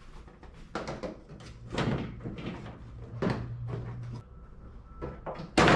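Clunks and knocks of an intake pipe and air filter being handled and shifted into place: a few separate knocks about a second apart, the loudest near the end. A low steady hum runs for a couple of seconds in the middle.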